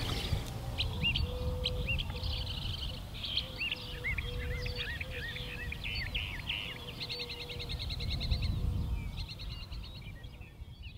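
Birds chirping, with short arching calls and a couple of rapid trills, over a low rumble; the sound fades out near the end.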